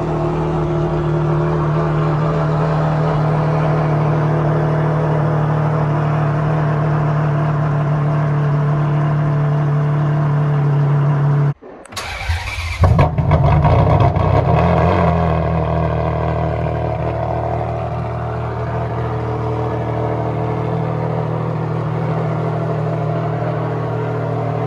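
A hypercar engine idling steadily. About halfway through, the sound cuts off abruptly and an engine starts cold: it fires, flares up in revs for a couple of seconds, then settles into a steady fast idle.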